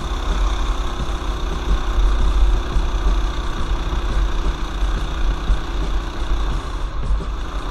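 Mini bike's small single-cylinder engine running steadily while riding, with wind buffeting the microphone as a heavy low rumble.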